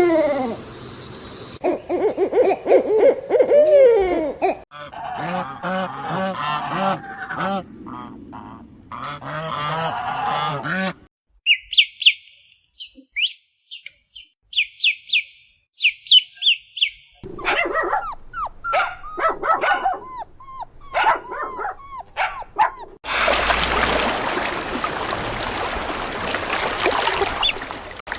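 A series of different animal and bird calls that changes every few seconds. There are pitched calls at first, a run of short high chirps in the middle, and an even, noisy stretch near the end.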